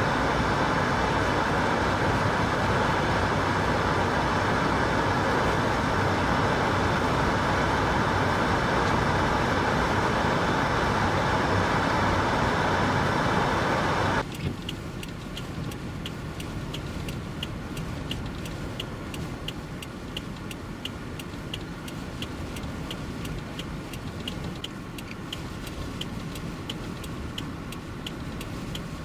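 A loud, steady rush of noise that cuts off abruptly about halfway through, leaving a quieter vehicle hum with a regular ticking of about one and a half clicks a second, like a car's hazard-light indicator.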